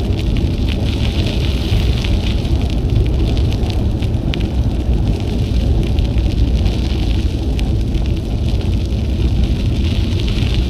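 Wind rumbling on an action camera's microphone during a bicycle ride, with a steady hiss and scattered faint ticks from the tyres rolling on the trail.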